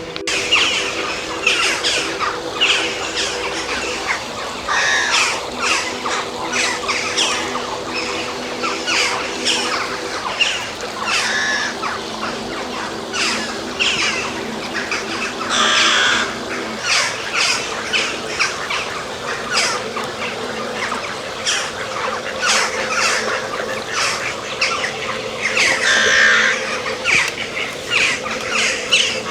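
Many birds calling at once: a dense, continuous run of short squawks and chirps overlapping one another. A faint steady hum lies underneath.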